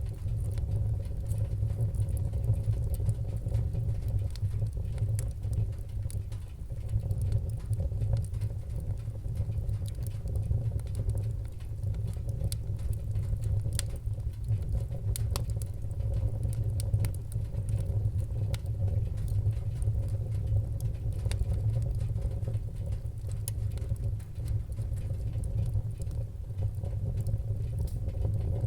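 Wood fire burning: a steady low rumble with frequent small, sharp crackles and pops scattered throughout.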